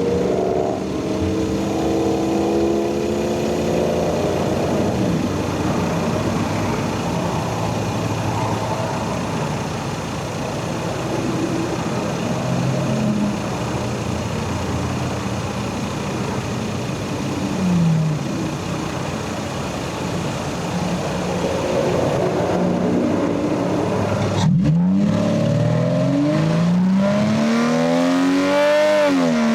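Lexus GS300's 2JZ straight-six engine and stock exhaust running under way. The pitch of the engine rises and falls through the middle. About two-thirds of the way through it drops out briefly, then climbs again in a series of rising sweeps as the car accelerates near the end.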